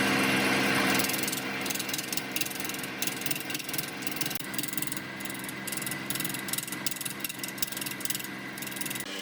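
Wood lathe motor running with a steady hum while a turning tool cuts the spinning wood. The cutting is loudest in the first second, then carries on as uneven rasping and chattering.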